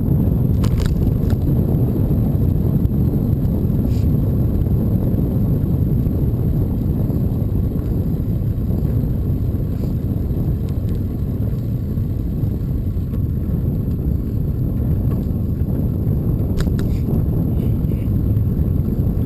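Steady low rumble of a bicycle ride, wind buffeting the microphone, with a few faint clicks.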